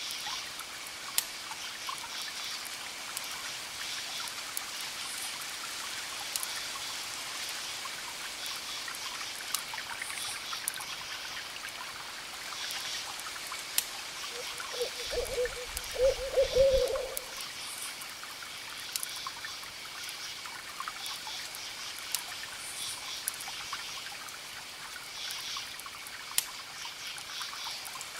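Wood fire crackling in sharp, scattered pops over a steady patter of rain and trickling water, with an owl hooting a few times about halfway through, the loudest sound.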